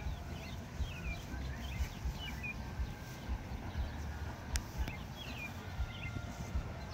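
Songbirds chirping, many short notes that slide downward, repeated throughout, over irregular low thumps and rumble. A single sharp click sounds about two-thirds of the way in.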